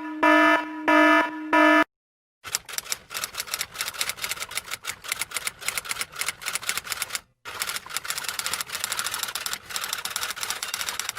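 A short run of electronic beeps, then rapid typing: a dense stream of key clicks with one brief pause partway through.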